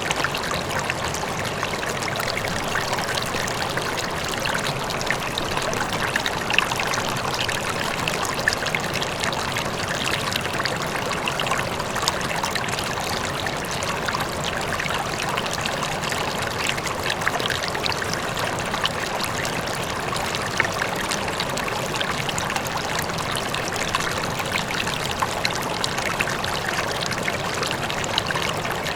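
River water flowing and splashing steadily over rocks, with a faint waterfall behind it.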